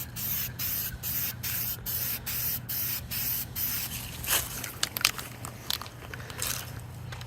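Aerosol spray-paint can hissing in short, evenly spaced bursts, about two or three a second, as paint goes onto an M1 helmet liner. Over the second half the spraying turns irregular, with a few sharp clicks.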